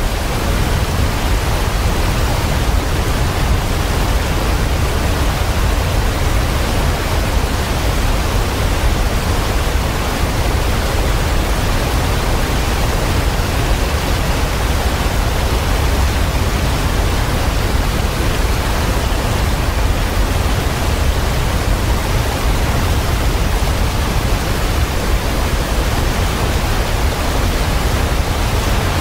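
Waterfall: a steady, unbroken rush of falling water, deepest in the low end.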